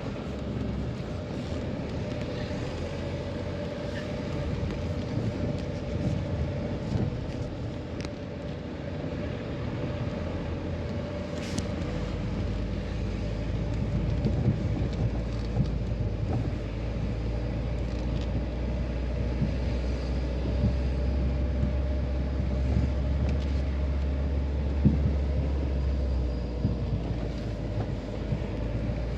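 A car driving along a rough forest road: steady engine hum and tyre rumble from inside the moving vehicle, with a much heavier deep rumble coming in about twelve seconds in.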